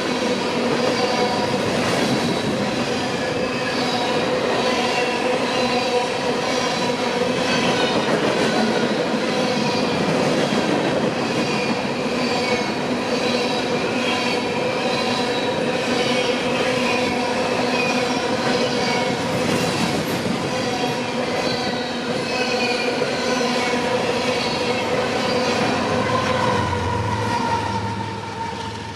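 Empty grain hopper cars of a freight train rolling past, with steady metallic wheel squeal over the clatter of wheels on rail. The sound drops slightly near the end.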